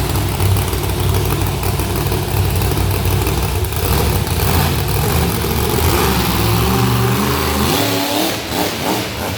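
Monster truck engine running loud and revving hard. Its pitch climbs near the end, then the low rumble drops off sharply.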